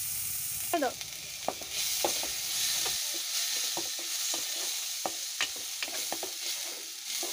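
Chopped onion sizzling as it fries in hot oil in a kadai. A spatula stirs it and scrapes against the pan in short clicks and scrapes.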